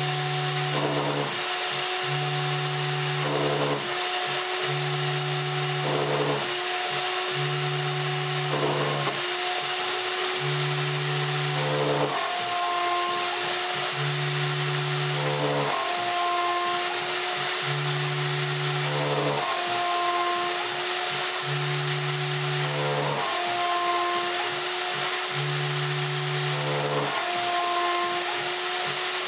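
CNC router milling 1/4 inch aluminium plate with a 1/4 inch single-flute carbide endmill spinning at 25,000 RPM, under a mister. There is a steady high whine and hiss, and a low stepper-motor hum that starts and stops about every two and a half seconds, with a short rising whine each time the axes change direction.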